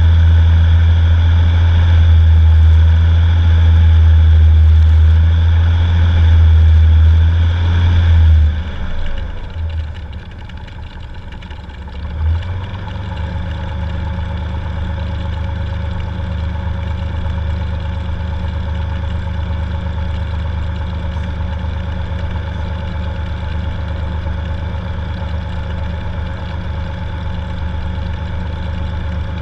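Cessna 182's six-cylinder piston engine running steadily at higher power, then throttled back about eight seconds in. It wavers for a few seconds, then settles to a lower, steady running.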